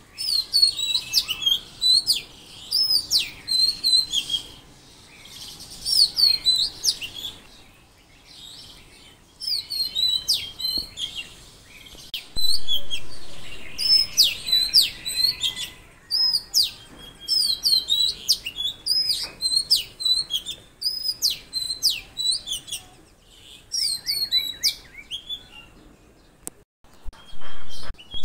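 Songbirds chirping: quick phrases of sharp, high downslurred notes, repeated in clusters with short pauses between them.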